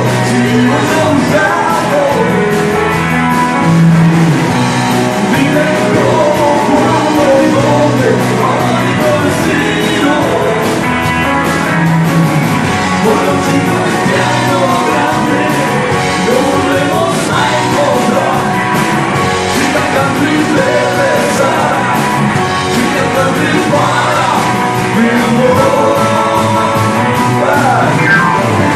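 Rock and roll song: a sung vocal over a band with guitar and a steady drum beat.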